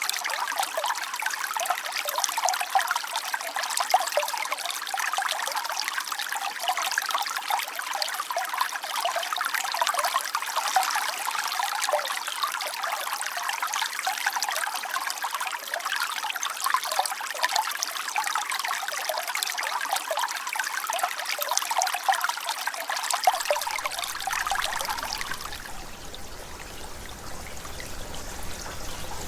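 Clear mountain river babbling in a steady trickle. About 24 seconds in, the water sound changes to a quieter, deeper rush.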